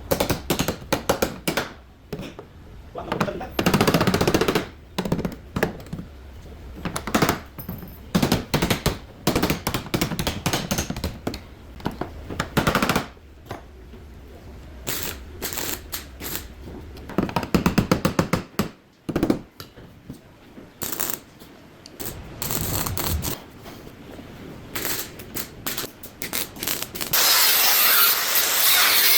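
Runs of quick, sharp knocks from hammering dents out of a Fiat Uno's sheet-metal body panels, with a steady rushing tool noise starting near the end.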